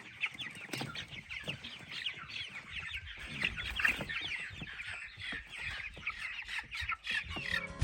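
A large flock of three-week-old Cornish Cross broiler chicks peeping without pause: many short, high, falling cheeps overlapping one another.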